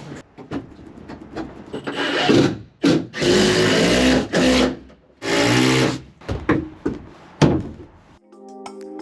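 Woodworking on plywood sheathing: three bursts of sawing or rasping, each up to about a second and a half long, with knocks and taps between them. Music starts near the end.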